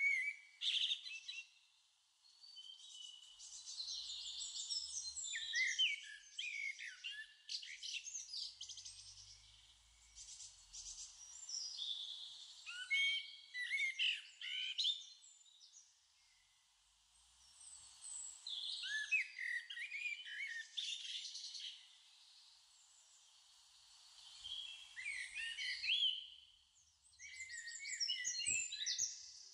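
Birds singing: clusters of quick, high chirps and warbling phrases, broken by short quiet gaps.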